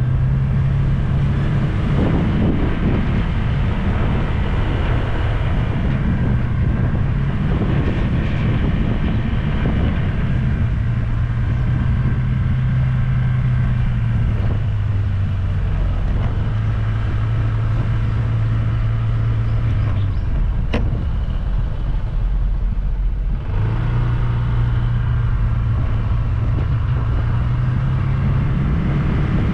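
Motor scooter engine running at riding speed, its hum shifting up and down in pitch in steps as the throttle changes and easing off briefly a little over twenty seconds in. A steady rush of wind and road noise on the scooter-mounted GoPro runs under it.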